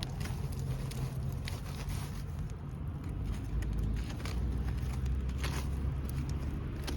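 Wood bonfire crackling, with scattered sharp pops, over a steady low rumble.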